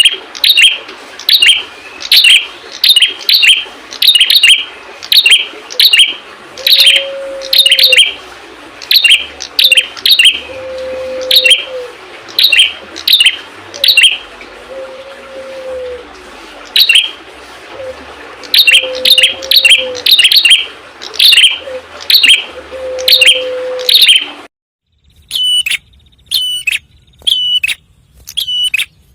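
Prenjak (prinia) singing: loud, sharp chirps repeated about twice a second in a steady series. Near the end the sound drops out briefly, then the chirps resume in a cleaner recording.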